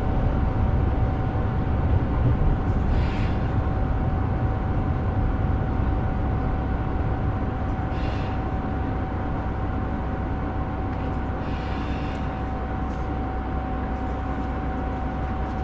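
Inside a KiHa 125 diesel railcar under way: the steady rumble of the engine and the wheels on the rails, with a constant high whine held throughout. The sound eases slightly toward the end.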